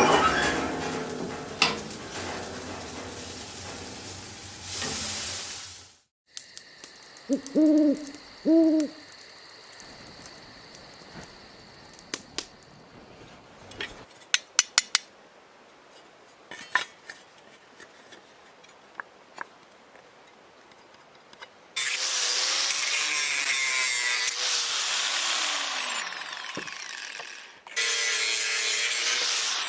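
Two short, low hoots about eight seconds in, then scattered faint clicks. From about two-thirds of the way through, a power tool runs loudly for several seconds and winds down with a falling whine, then starts up again near the end.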